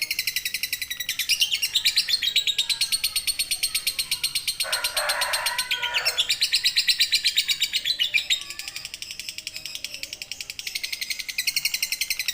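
Lovebird 'ngekek': a long, unbroken run of shrill chattering notes repeated about ten times a second, with a short lower-pitched burst about five seconds in.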